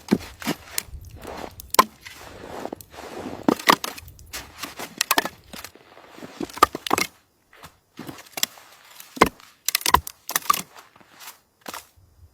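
A series of irregular sharp knocks and cracks, some in quick clusters and some spaced out, with a brief pause about two-thirds of the way through.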